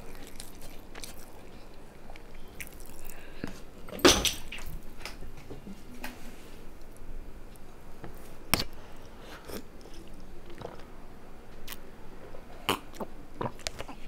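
Close-up eating sounds: chewing and biting with scattered wet mouth clicks and smacks. A louder sudden sound about four seconds in and a sharp click a few seconds later.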